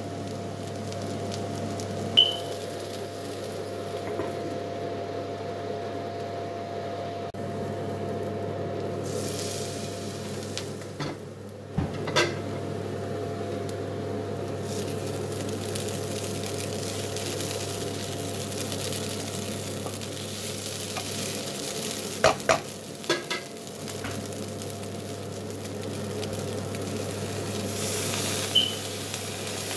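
Poha and potato cubes sizzling in a non-stick wok as a wooden spatula stirs and turns them. A few sharp knocks of the spatula on the pan stand out, with a quick cluster of them a little past the middle.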